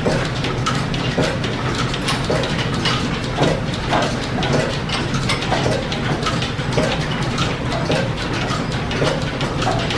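Belt-driven line-shaft machinery running: a steady low hum with a regular click or knock about twice a second.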